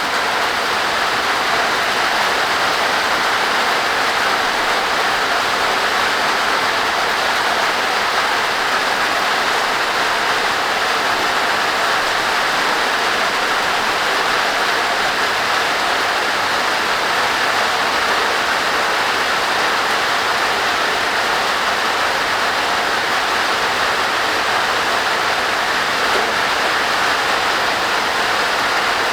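Heavy rain drumming on a tin porch roof, a steady, loud hiss of water that does not let up.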